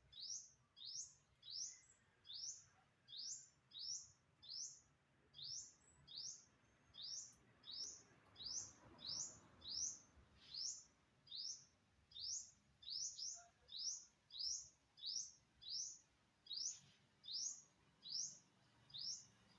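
A bird calling over and over: a short, high note that sweeps quickly upward, repeated at an even pace of about three notes every two seconds.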